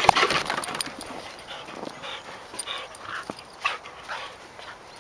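Airedale terriers playing rough together: short dog vocal sounds and scuffling, busiest in the first second, then brief sounds every second or so.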